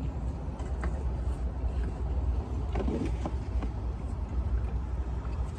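A steady low rumble, with a few faint, short clicks and small handling noises over it.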